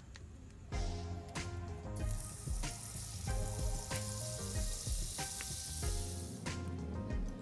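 Food frying in hot oil in a wok, a sizzle that starts about two seconds in and eases off near the end, over background music.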